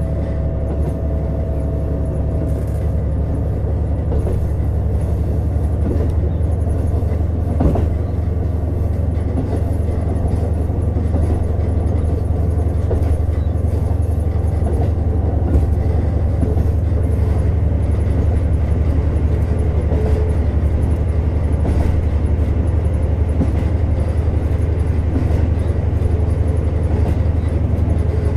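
JR Hokkaido KiHa 150 diesel railcar running along the line: a steady low drone of the diesel engine and wheels on the rails, with one sharp knock about eight seconds in, growing slightly louder.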